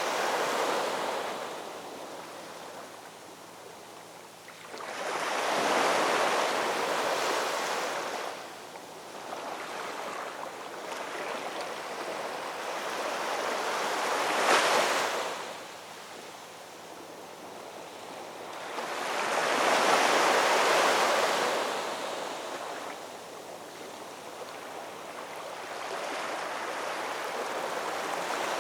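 Ocean waves breaking on a shoreline and washing back, in slow surges that rise and fall every five to seven seconds, one breaking sharply about halfway through.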